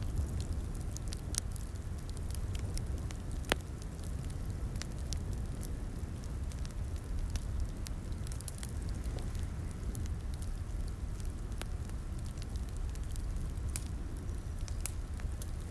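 Wood fire crackling in a fireplace: scattered sharp pops and snaps over a steady low rumble of flames, with one louder pop about three and a half seconds in.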